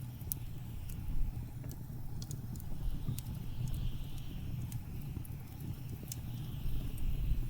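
Steady, low blizzard wind noise with a wood fire crackling over it in sharp, scattered pops.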